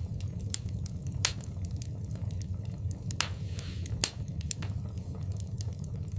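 Wood fire burning in a fireplace: a steady low rumble of flames with frequent sharp crackles and pops, the loudest about a second in and about four seconds in, and a brief hiss a little after three seconds.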